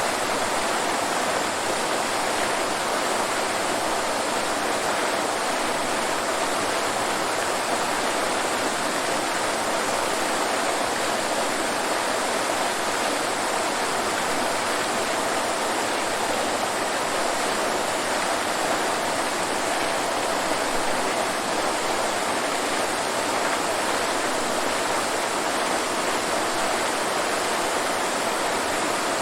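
Waterfall: a steady, even rush of falling water with no breaks or separate events.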